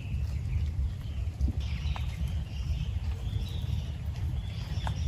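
Heavy rain on a tent or tarp: a steady low drumming with a few scattered sharp drip knocks.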